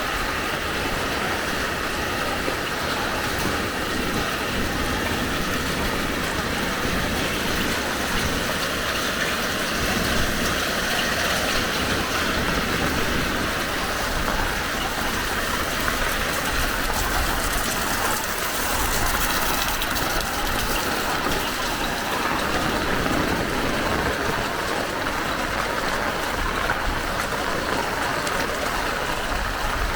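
Heavy rain falling: a steady, even hiss that holds at one level throughout.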